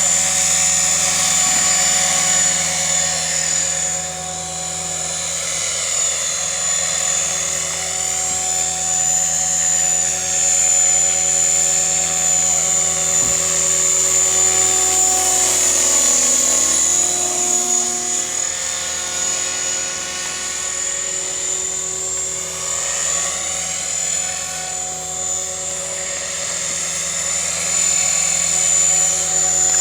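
T-Rex 600 radio-controlled helicopter flying, its rotor and motor giving a steady high whine. The sound swells and fades and its pitch sweeps up and down as the helicopter moves around, with a clear dip and rise about halfway through.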